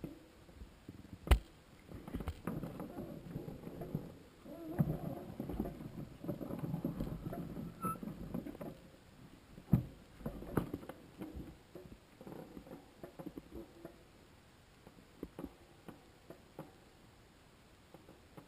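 Irregular knocks, clicks and rustling, with a sharp knock about a second in and another about ten seconds in, and a denser crackling stretch between them that fades to scattered faint clicks.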